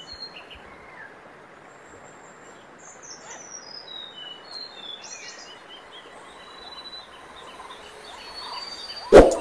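Birds chirping in short, high calls over a steady background hiss, with one loud, sharp clanging hit near the end.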